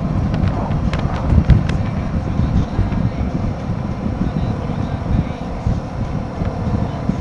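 Wind buffeting the microphone of a moving Royal Enfield Himalayan 450, with the motorcycle's single-cylinder engine running steadily beneath it. A few sharp clicks about a second in.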